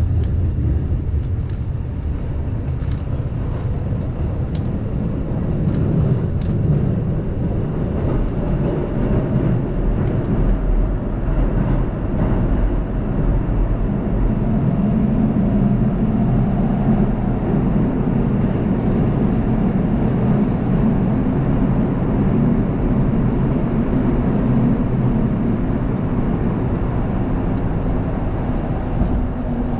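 Keihan limited express train running at speed, heard from inside the carriage: a steady rumble of wheels and running gear, with a few sharp clicks in the first several seconds.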